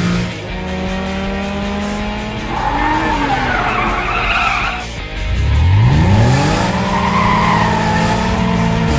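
Cartoon race-car sound effects over background music: a car engine running, a tire screech from a few seconds in, then the engine revving up sharply about five seconds in.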